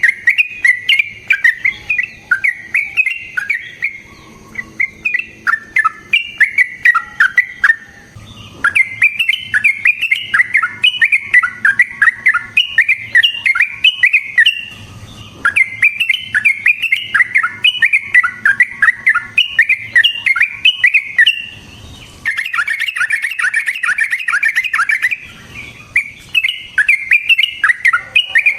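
Yellow-vented bulbul (trucukan) singing long runs of rapid, bubbly chattering notes, each run lasting several seconds with brief pauses between. This is the long rolling 'ropel' song used to provoke other trucukan into answering.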